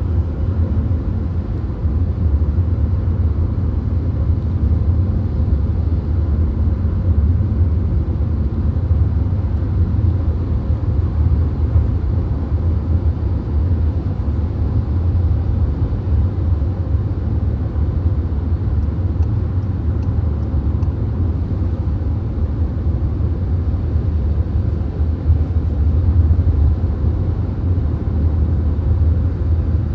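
Steady low road rumble and tyre noise heard from inside a VW Golf cruising on a highway, with no changes in pace.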